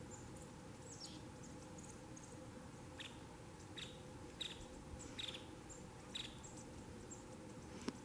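Small birds in a pine tree giving short, high chip notes, each dipping slightly in pitch, about half a dozen spread through, with fainter high ticks between, over a faint steady hiss. A single sharp click comes just before the end.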